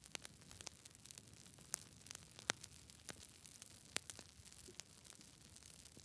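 Campfire burning with a faint steady hiss and scattered sharp crackles and pops of burning wood, the loudest pops about two and a half and four seconds in.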